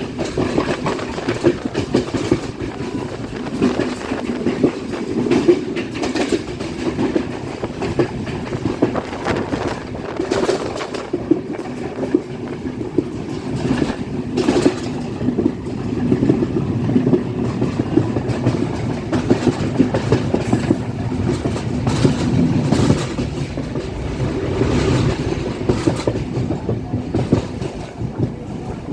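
Passenger train running along the track: a steady rolling rumble of wheels on rail, with occasional clacks as the wheels cross rail joints.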